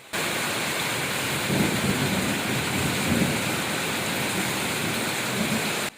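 Heavy rain falling steadily, with a few faint low sounds underneath; it cuts in and cuts out abruptly like an inserted sound clip.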